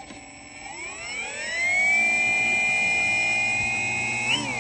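Electric motor and propeller of a 3D-printed RC model plane spooling up at the start of its take-off run: the pitch climbs over about a second into a steady high whine, then starts wobbling up and down near the end.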